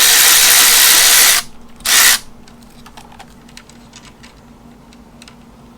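Power tool run on the 10 mm nut of the alternator wire: one loud burst of about two seconds, then a short second burst, followed by light clicking as parts are handled.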